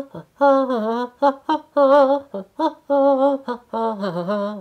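A person humming a well-known classical melody in a string of short held notes, mimicking orchestral music.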